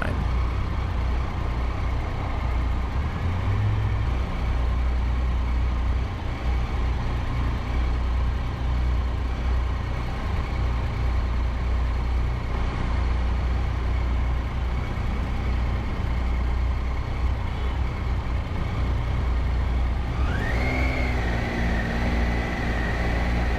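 Triumph Tiger 800's three-cylinder engine running steadily at low speed in slow, heavy traffic. Near the end a held high-pitched tone joins it for about three seconds, then drops away.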